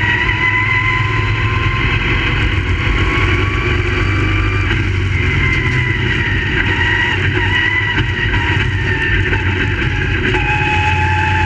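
Crate Late Model race cars' V8 engines running hard together at high revs, a loud steady drone whose pitch wavers slightly up and down.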